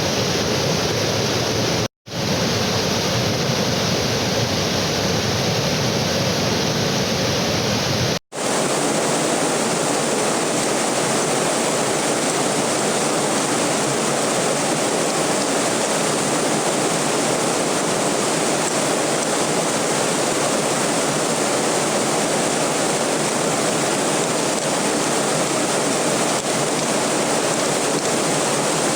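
Steady rushing of a waterfall, heard close. The sound drops out completely for a moment about two seconds in and again about eight seconds in, and after the second break it is thinner in the bass and brighter.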